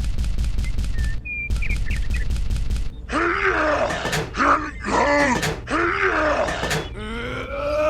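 A rapid, even rattle of about eight clicks a second for the first three seconds, then a person's voice groaning in several short, arching cries, rising into a wail near the end.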